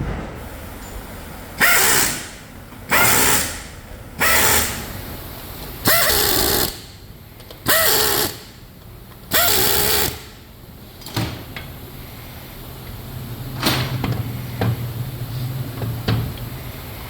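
A power tool run in six short bursts, about a second and a half apart, on a motorcycle engine assembly line. After the bursts, a low steady hum with a few sharp clicks.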